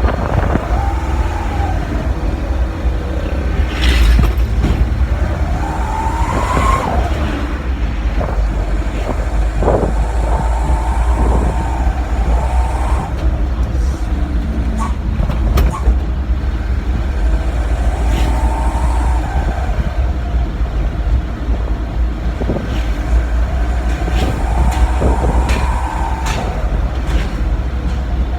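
Diesel truck fitted with a homemade 'srigala' exhaust (a silencer built from a used Canter oil filter) running, with a heavy steady rumble. Its pitch rises and falls about five times, as if revving or pulling through gears.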